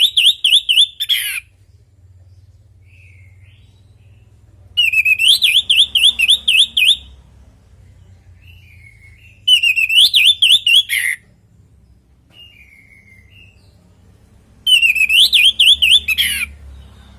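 Orange-headed thrush (anis merah) singing: phrases of about two seconds, repeated about every five seconds, each a fast run of rising-and-falling whistled notes. Softer short calls come between the phrases.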